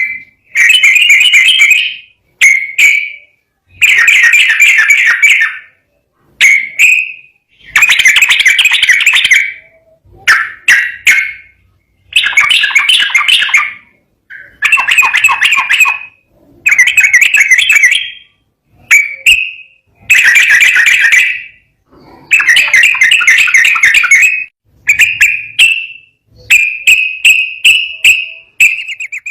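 Yellow-vented bulbul (trucukan) singing loudly in rapid, bubbling phrases of about one to two seconds each, repeated with short pauses between them.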